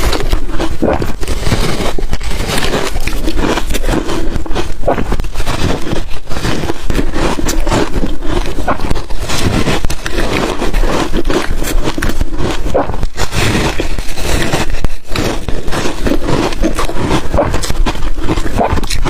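Ice dusted with matcha and milk powder being bitten and chewed close to the microphone: a dense, continuous run of sharp cracking and crunching.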